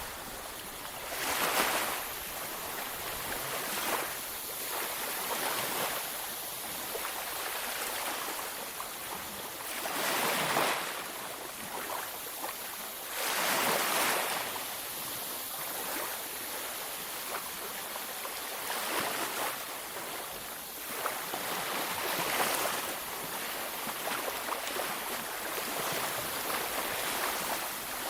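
Ocean waves breaking on a beach: a steady wash of surf with swells as waves break, the biggest about ten and fourteen seconds in.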